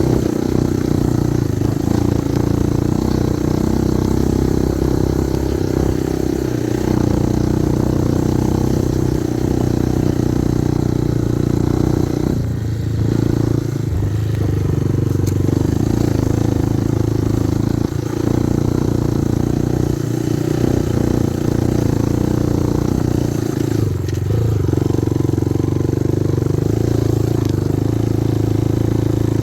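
Kovi Advance 250 enduro motorcycle engine running steadily under way, with a few brief dips as the throttle is eased off.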